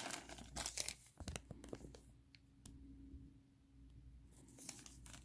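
Rustling and light clicking as small plastic miniature parts and their bag are handled, busiest in the first couple of seconds and again briefly near the end.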